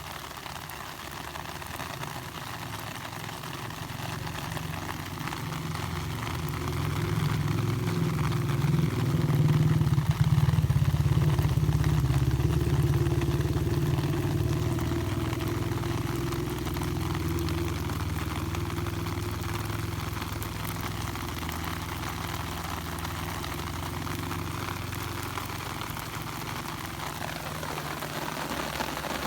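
A motor engine running, growing louder over the first ten seconds or so and then slowly fading.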